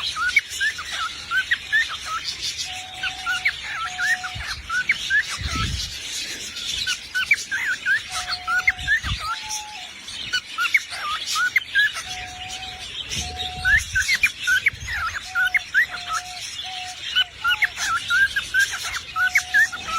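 Parrot chirping and whistling: a steady stream of quick, short rising chirps, with clear held whistle notes, often in pairs, every few seconds.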